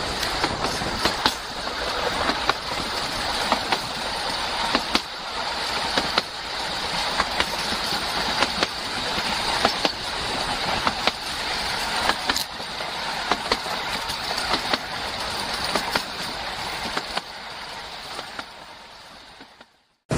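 Narrow-gauge railway coach running along the track, heard close to the wheels: a steady rush of running noise with irregular clicks as the wheels cross rail joints. It fades away over the last few seconds.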